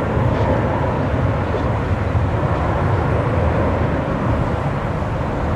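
Jet airliner engines, a steady low rumble with a hiss above it.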